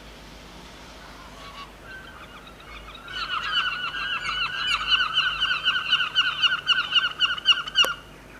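Common blackbird's alarm chatter: a fast run of loud, repeated, metallic call notes, starting about three seconds in after a few single notes and stopping suddenly near the end with a sharp click.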